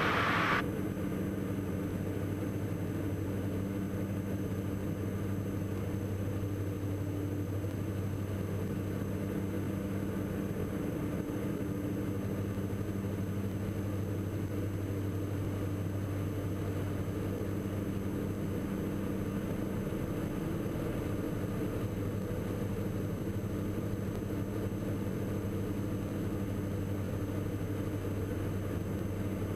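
Steady drone of a Diamond DA42 NG's twin turbodiesel engines and propellers heard in the cockpit, a low, even hum with a few constant tones.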